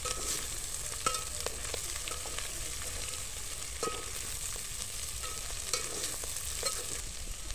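Omena (small dried lake fish) and sliced onions frying in oil in a metal pot, a steady sizzle, while a metal spoon stirs them, scraping and knocking the pot with short ringing clinks several times.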